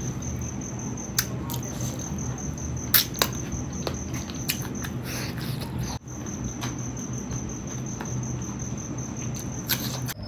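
Close-miked eating sounds of chicken feet being chewed and sucked, with scattered sharp clicks and smacks, over a steady high-pitched whine.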